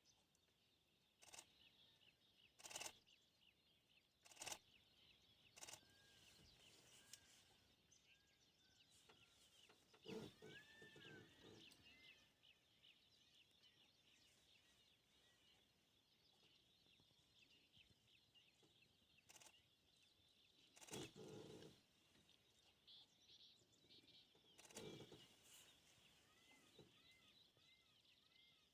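Faint wild forest ambience: a steady high insect drone, birds giving short rising-and-falling chirps with a quick run of them near the end, and a few sharp cracks and brief rustles.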